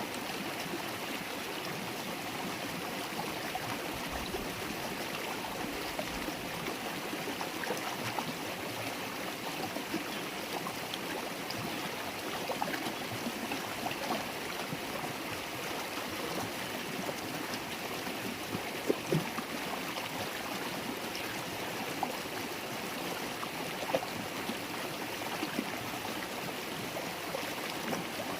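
River water flowing and babbling steadily, with small trickling and gurgling sounds and a few brief louder splashes about two-thirds of the way through.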